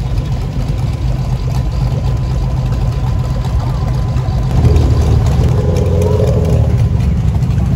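A motor vehicle's engine running at a steady low pitch, getting louder about halfway through.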